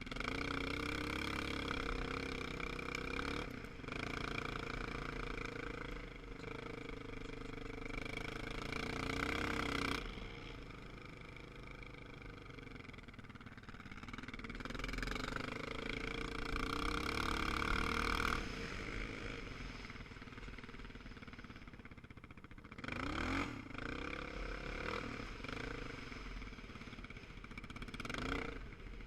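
Motorcycle engines running, their pitch rising and falling as the throttle is opened and closed, with quick up-and-down sweeps twice near the end.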